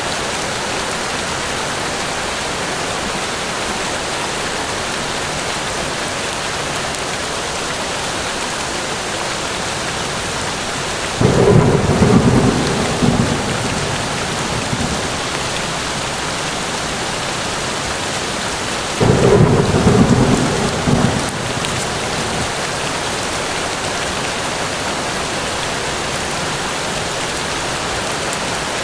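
Steady, even forest rain, with two loud low rumbles of thunder that start suddenly about eleven and nineteen seconds in, each lasting two to three seconds.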